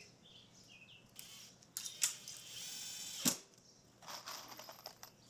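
A small mechanism or tool at work: a few clicks, then about a second of whirring that ends in a sharp knock, followed by scraping noise.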